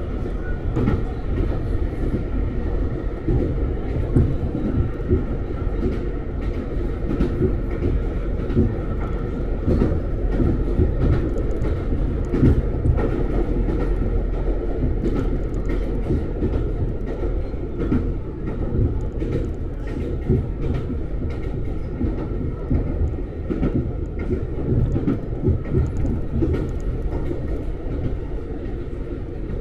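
Ichibata Electric Railway train running, heard from on board: a steady low rumble of wheels on the rails with scattered sharp clicks from the track.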